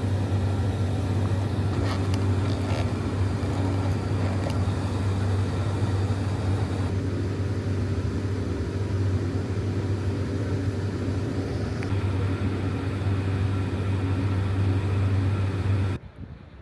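Steady low rumble and hum of a local train running, with a few steady tones above it, cutting off suddenly near the end.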